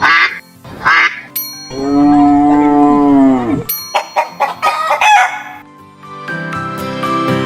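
A run of recorded farm animal calls: two short calls, then a long call of about two seconds whose pitch rises and falls, then a cluster of short calls. Background music comes in about six seconds in.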